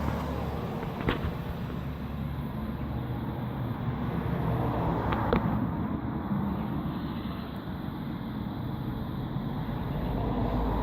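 Steady low outdoor background rumble with no clear pitched source, with a light click about a second in and another about five seconds in.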